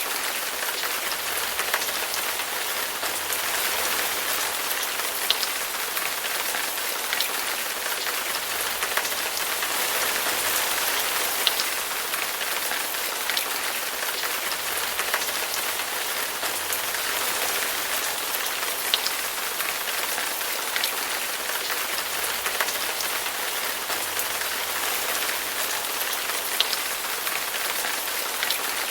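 Heavy rain falling steadily, a dense even hiss with the sharp ticks of individual drops striking a surface scattered through it.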